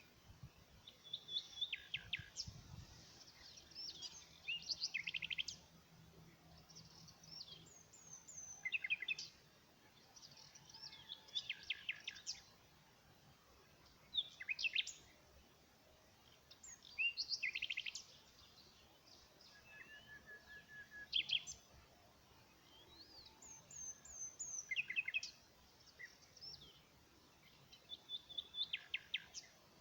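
Songbirds singing: short phrases of quick high chirps, often sliding downward, recurring every two to three seconds over a faint background hiss.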